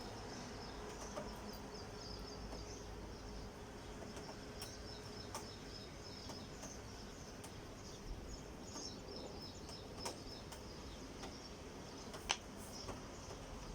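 Faint, high-pitched chirping, like small birds, in the background, with scattered light clicks and taps; the sharpest click comes near the end.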